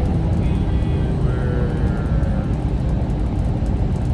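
Steady low rumble of engine and road noise inside the cab of a semi-truck rolling down the highway.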